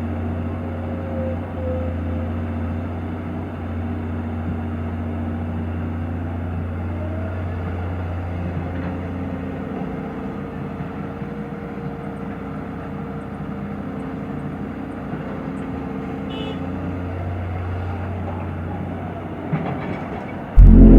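A heavy diesel engine running steadily, a low drone with a few held tones. Near the end a much louder low rumble cuts in suddenly.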